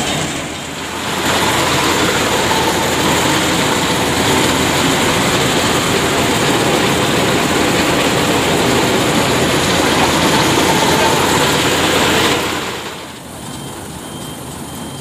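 Heavy tow-truck engines running hard under load during a recovery pull, a loud steady mechanical din that swells about a second in and drops away sharply near the end.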